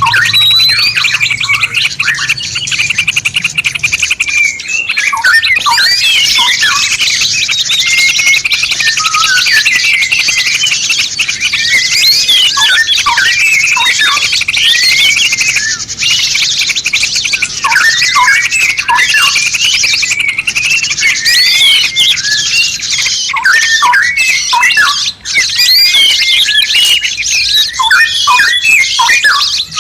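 Songbird song in a continuous, dense stream of rapid chattering trills, quick up-and-down whistled sweeps and short sharp notes, a masteran (master) song recording used for training caged songbirds.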